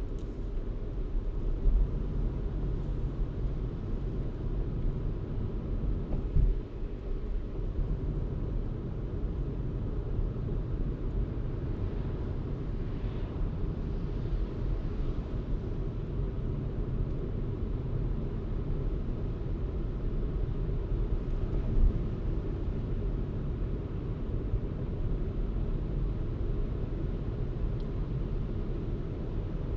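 A car being driven, heard as a steady low rumble of engine and tyre noise on the road. A few short knocks come through, about two seconds in, at about six seconds and at about twenty-two seconds, like the car going over bumps.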